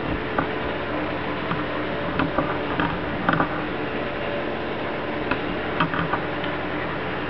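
Scattered light clicks and taps of small hard objects being handled, over a steady room hum.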